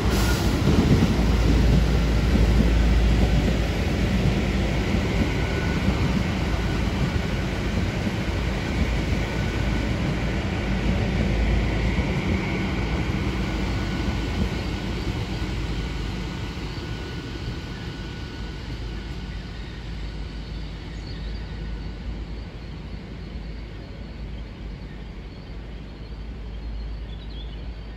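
A GWR Class 802 intercity train rolling past and slowing as it pulls into the platform, its wheels and running gear rumbling. A faint steady high whine sits over it through the middle, and the sound fades as the train draws away down the station.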